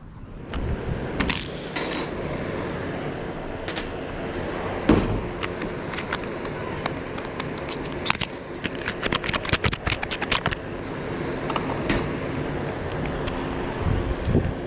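Metal tools and parts clinking, clicking and scraping during hands-on work on a condenser fan motor, with a quick run of clicks about nine seconds in, over a steady low hum.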